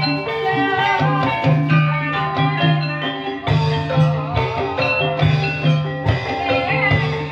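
Live Ebeg music from a dangdut-kreasi ensemble: gamelan-style mallet instruments playing a melody over a steady drum beat.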